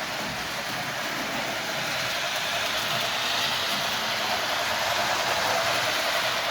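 Rail King O-gauge model steam locomotive running on its track: wheels rolling on the rails along with the Proto-Sound 2.0 steam sounds, a steady rushing noise that grows a little louder in the second half.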